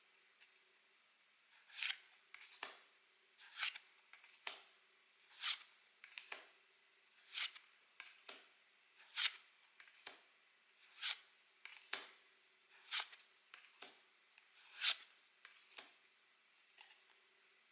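Pokémon trading cards being slid one at a time off a stack, each a short swish followed by a light tap, eight times at an even pace of about one card every two seconds.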